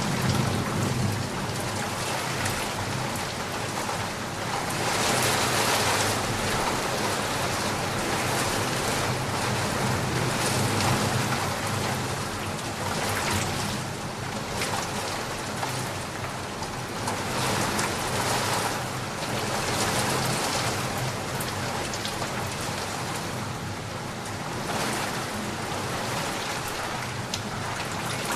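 Steady rain falling hard, a dense hiss of drops on surfaces that swells louder and eases off every few seconds.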